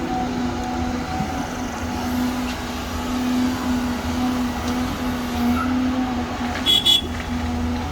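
Diesel engine of heavy earthmoving equipment running steadily with a constant hum. About seven seconds in there is a brief high-pitched double squeal.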